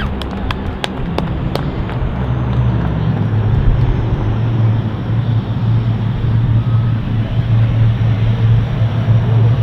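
Turboprop engines of a Lockheed C-130 Hercules running with a steady, loud low drone.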